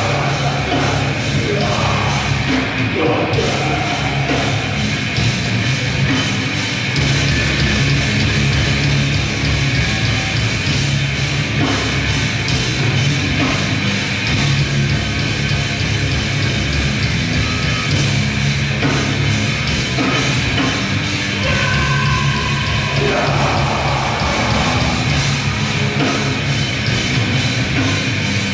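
Grindcore band playing live at full volume: heavily distorted guitars and bass over a drum kit, a dense, unbroken wall of sound.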